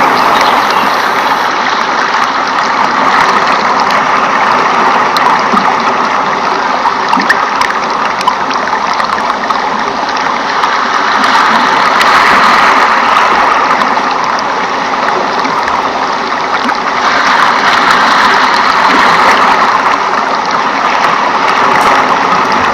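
Steady rushing water, swelling and easing slowly in level.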